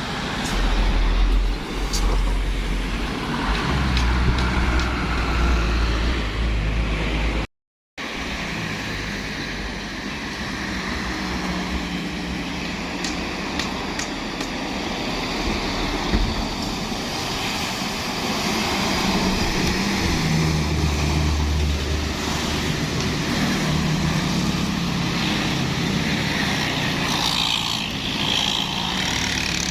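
Heavy truck engines labouring up a steep hill, with the low rumble of passing traffic. The sound breaks off into silence for about half a second some seven seconds in.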